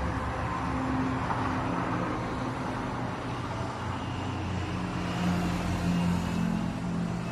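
Steady low mechanical hum with a droning tone that grows stronger about five seconds in: the abnormal noise reported at a car-park space.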